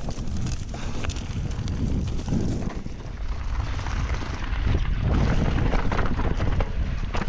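Full-suspension mountain bike (Trek Remedy) riding down a rough trail: wind on the action-camera microphone, with frequent clicks, knocks and rattles from the bike over the ground, getting louder about five seconds in.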